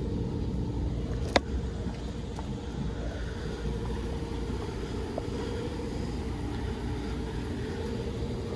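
Outdoor central air conditioner condensing unit running, with its condenser fan and scroll compressor giving a steady low hum. A single sharp click about a second and a half in.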